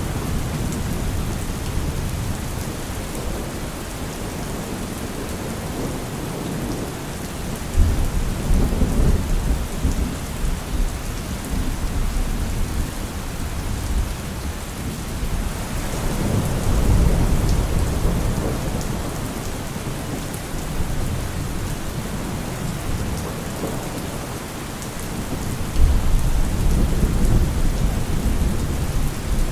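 Heavy rain falling steadily, with thunder rumbling low underneath. Sharp claps break in about eight seconds in and again near the end, and a longer rolling rumble swells in the middle.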